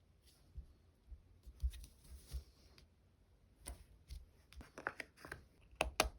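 Close-up handling of stickers and paper on a desk: soft taps, light rustles and low thuds, then a quick run of sharper clicks and snips near the end.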